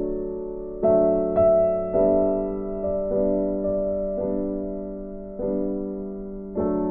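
Slow, soft piano background music: chords struck about once a second, each ringing and fading before the next.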